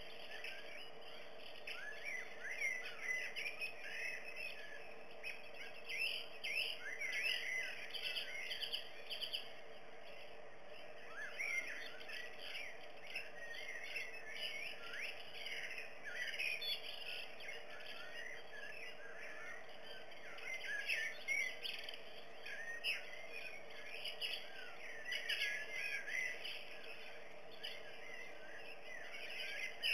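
Birds chirping and singing: many short, quick calls in clusters, with brief lulls, over a steady low hum.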